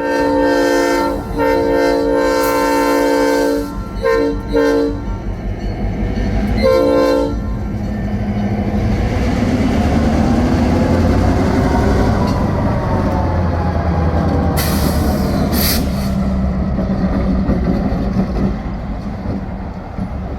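Horn of an EMD GP38-2 diesel locomotive sounding several blasts, two long and then shorter ones, as the train crosses a road. After that the locomotive's diesel engine runs steadily as the train moves past, with a brief hiss a bit past the middle.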